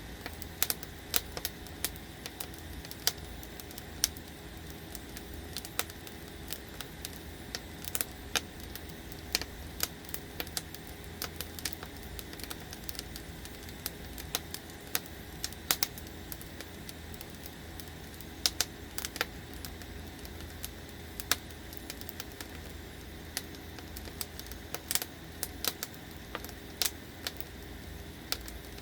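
Firewood burning and crackling, with irregular sharp pops and snaps over a steady low background noise.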